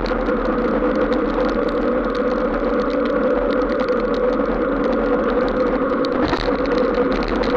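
Steady road noise of a vehicle running on a wet road: tyre hiss and spray over a constant drone, with a brief louder swish about six seconds in.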